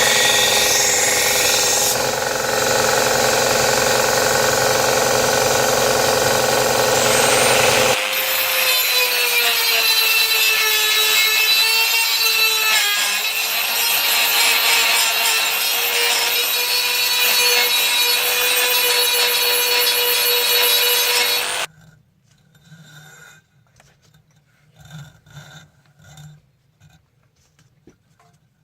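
Power grinder running and grinding the steel of a saw blade: a steady motor hum under a loud gritty rasp, in two stretches joined by a cut about 8 s in. The grinding stops abruptly about two-thirds of the way through, leaving faint clicks and taps of handling.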